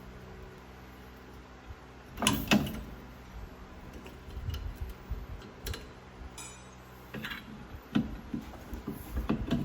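Metal clanks and scrapes of drum brake hardware being handled: brake shoes and return springs coming off a front backing plate. One louder clatter about two seconds in, then scattered lighter clicks and knocks.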